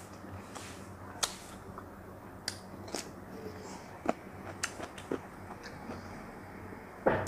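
Close-up mouth sounds of a person eating a purple cabbage leaf: scattered wet clicks and smacks of chewing, with a louder burst near the end, over a faint steady hum.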